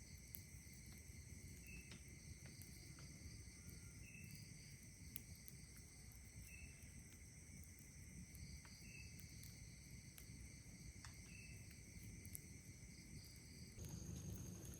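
Faint night chorus of crickets and other insects, several steady high-pitched trills together, with a short chirp repeating every couple of seconds and scattered faint crackles from a campfire. Near the end the chorus changes abruptly: one trill stops and another higher one starts.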